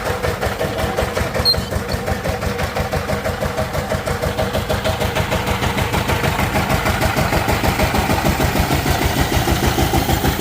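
Power tiller's diesel engine running steadily just after starting, with a fast, even beat of firing pulses that grows a little louder about halfway through.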